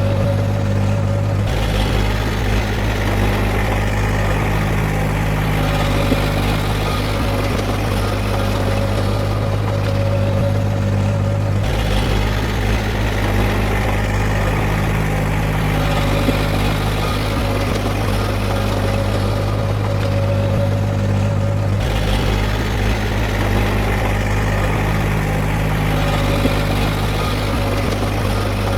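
Heavy diesel engine of earthmoving machinery running steadily, with abrupt shifts in its sound about every ten seconds.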